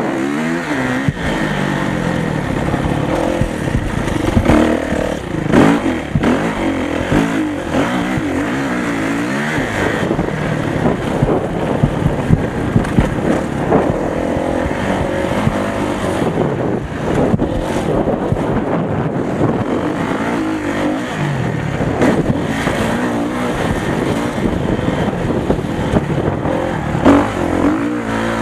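Motocross motorcycle engines revving up and down over and over as the bikes ride the track, with the pitch rising and falling throughout.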